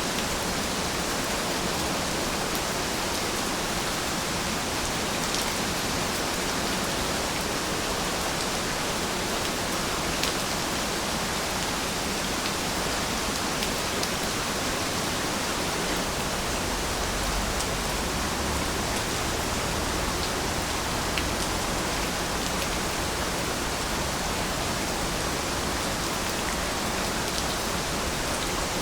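Steady rain falling, an even hiss with scattered individual drops ticking, one a little sharper about ten seconds in.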